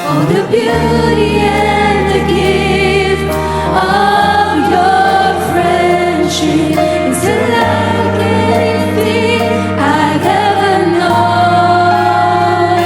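Contemporary worship band music with several voices singing over sustained low keyboard and bass notes.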